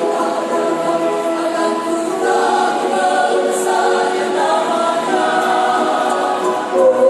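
Church choir singing a hymn in several voice parts, with long held notes.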